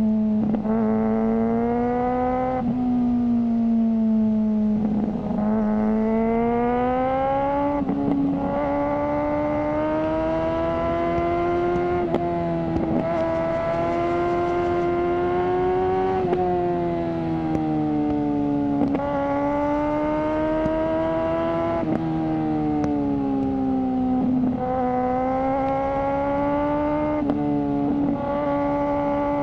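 Suzuki GSR600's inline-four engine running through a GPR Ghost aftermarket exhaust under way. The engine note climbs and falls, breaking off every few seconds as the gears change.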